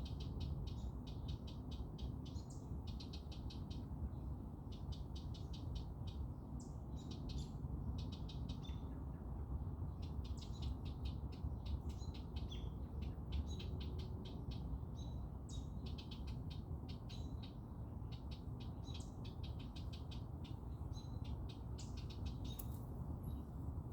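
Small songbirds chirping in rapid, rattling trills of short high notes, one run after another, over a steady low background rumble.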